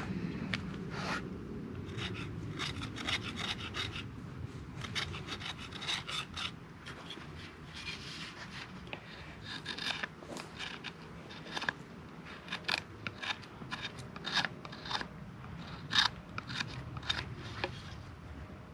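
A tool working wood: irregular rasping, scraping strokes mixed with sharp ticks.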